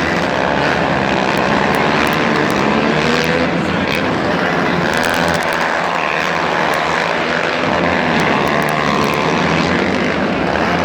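Monster truck engine running hard at high revs, loud and continuous, its pitch wavering as the throttle changes.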